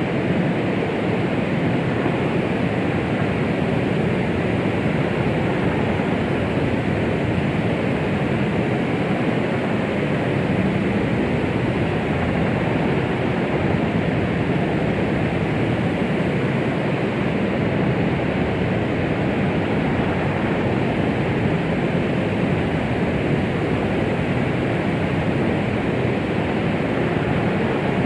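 Steady, even white noise of the kind played to soothe a baby, meant to imitate the sound of the womb. Most of its weight sits in the low and middle range, with little treble, so it sounds more like a soft rushing than a hiss, and it never changes.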